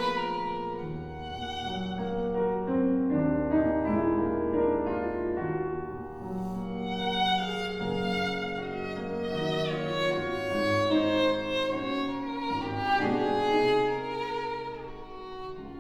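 Live classical chamber music: violin and cello playing sustained, slow melodic lines with vibrato over piano.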